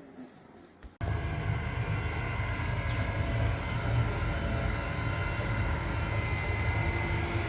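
An engine running steadily with a low rumble, cutting in abruptly about a second in.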